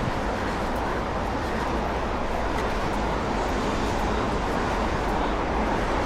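Steady road traffic noise, an even rush of vehicles without a break.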